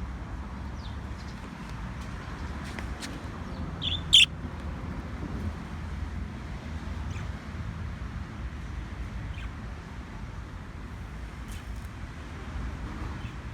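Budgie giving one short, loud, high chirp about four seconds in, with a softer one just before it, over a steady low rumble and scattered faint clicks.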